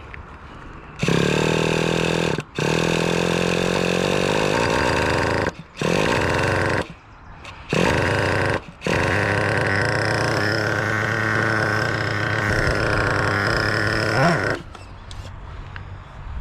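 Traxxas Revo 3.3's TRX 3.3 nitro engine being spun over by the electric starter box in several long bursts, broken by four short pauses. Near the end it drops to a quieter steady running sound.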